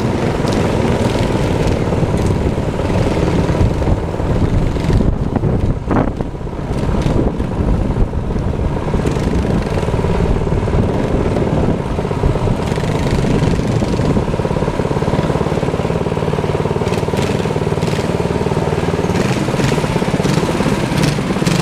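Minibike engine running steadily while being ridden.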